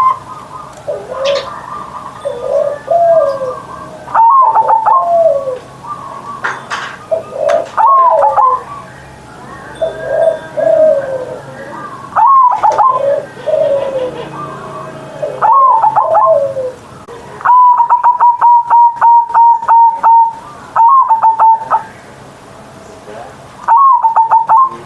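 Zebra dove (perkutut) cooing its song, a phrase of clipped and gliding coos every three to four seconds. One longer run of rapid, evenly spaced notes comes about two-thirds of the way in.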